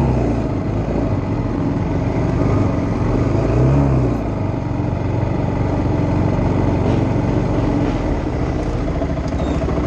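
Racing quad (ATV) engines running hard, revving up and back down twice, once near the start and again about four seconds in.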